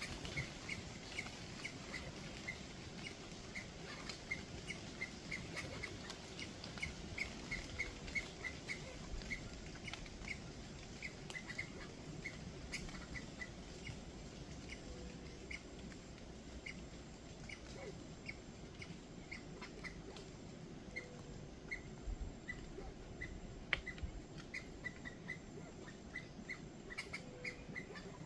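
Short high chirps from a small animal, repeating irregularly a few times a second over a steady outdoor hiss, with a faint lower whistle every several seconds.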